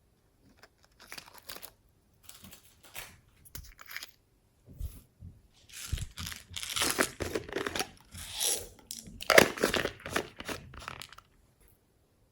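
Slime being squeezed, stretched and folded by hand, making irregular crackling and crunching pops. The pops are sparse at first, then louder and denser from about halfway in, stopping shortly before the end.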